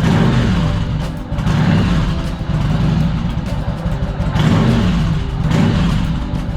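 Yamaha XV1100 Virago's V-twin engine running with its throttle blipped, the engine note rising and falling in pitch a few times.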